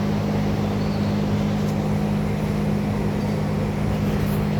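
A steady machine hum with a low, even drone that does not change.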